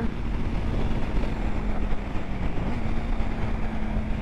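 Honda CBR650 inline-four with an aftermarket exhaust idling while stopped at a light, mixed with wind noise and a steady electrical buzz in the recording.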